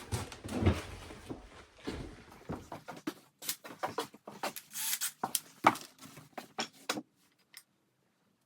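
Small tools and parts being handled on a workbench: irregular clicks, taps and rustling, with one sharper click a little past the middle, then it goes quiet about seven seconds in.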